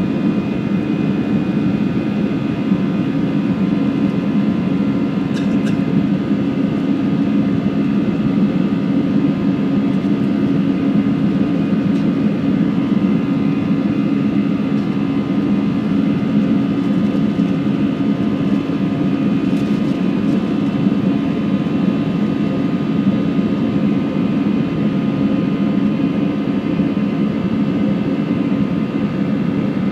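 Airbus A320 jet engines and airflow heard inside the passenger cabin over the wing: a steady, loud drone with several steady whining tones on top and no change in pitch.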